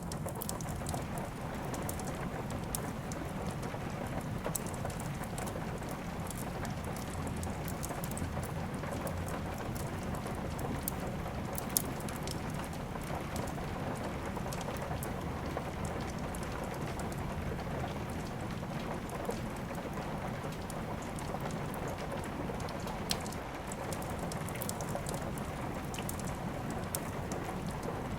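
Steady rain mixed with a wood fire crackling, with scattered sharp pops throughout and a louder snap about twelve seconds in.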